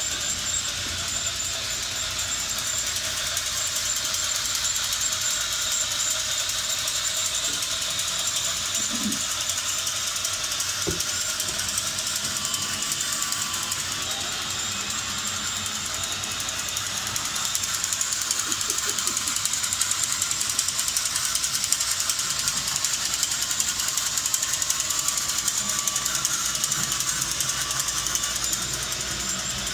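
Steady, fast mechanical clatter with a hiss, from machinery running continuously.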